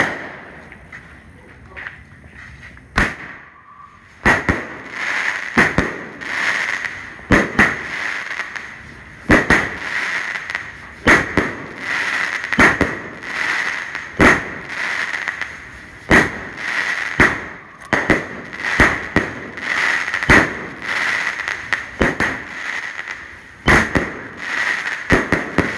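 A 16-shot firework cake, the 'Waltz of Jujube', firing its shots one after another. After about three seconds of quieter hiss, the shots come roughly once a second, each a sharp bang followed by a hissing tail.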